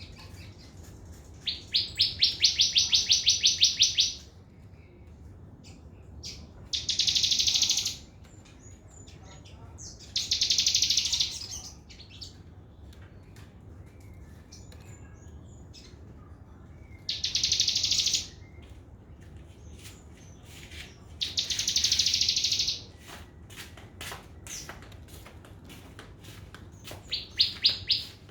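Sogon (crimson sunbird) singing its fast 'trotol' trill: six high-pitched bursts of rapid notes lasting one to two seconds each, every few seconds, with faint short ticks in between.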